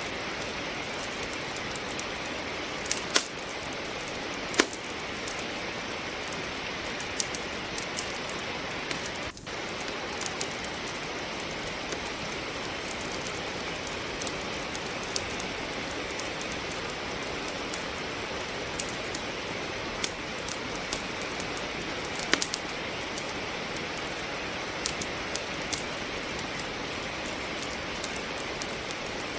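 Steady rain with a wood fire crackling in a fireplace: sharp pops scattered irregularly, the loudest about three seconds in, near five seconds and around twenty-two seconds. The rain sound drops out for an instant about nine seconds in.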